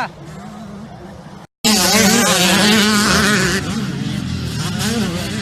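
Several motocross bikes' engines revving, their pitch rising and falling. The sound cuts out completely for a moment about a second and a half in, then comes back loud.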